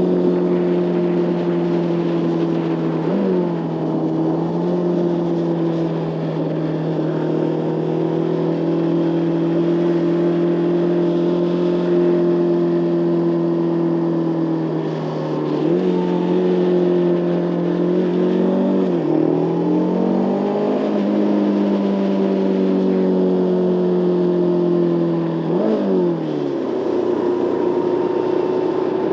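Motorcycle engine running at a steady cruise under the rider, its note shifting pitch four times as the revs change, over a steady rush of wind.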